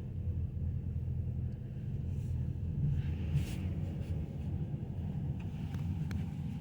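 Steady low rumble of a car, with a few faint ticks.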